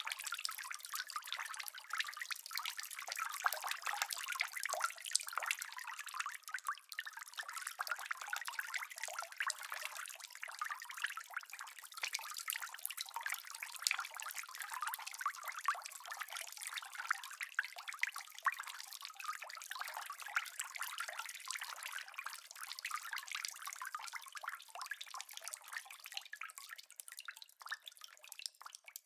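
Steady rain: a dense patter of many small drops, with no thunder, thinning to sparser drips near the end.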